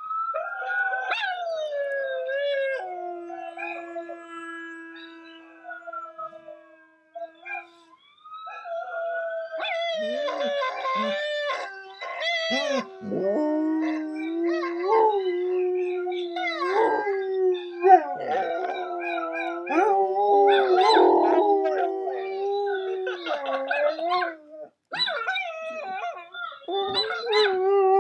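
Pet dog howling and yowling in long, wavering, pitch-gliding calls with short breaks, the varied 'talking' sound of a dog vocalising.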